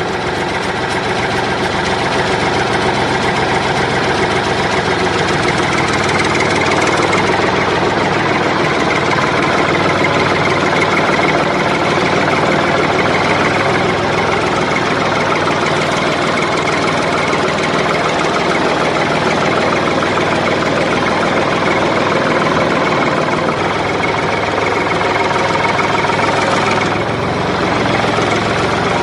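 An engine idling steadily throughout, with no change in speed.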